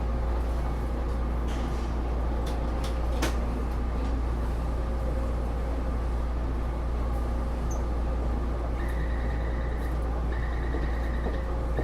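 Cabin sound inside a Taipei Metro Series C301 metro car with Bombardier IGBT-VVVF traction: a steady low rumble with scattered clicks. About nine seconds in, a high beeping tone starts, sounding on and off.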